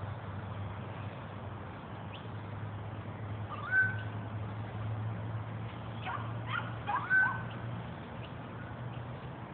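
Bird calls over a steady low hum: two louder short calls, each a quick upward sweep that levels off, about 4 and 7 seconds in, with a few fainter chirps between them.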